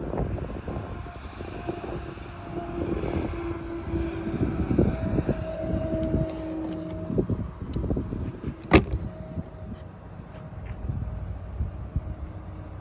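Vehicle engine noise with a steady drone and low rumble, and one sharp click about nine seconds in.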